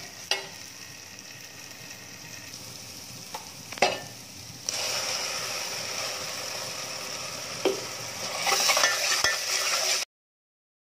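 Onion-tomato masala with Kolhapuri chutney sizzling in hot oil in a pan as it is stirred and roasted, with a couple of spoon knocks against the pan. The sizzling gets louder about halfway through, and the sound cuts off suddenly near the end.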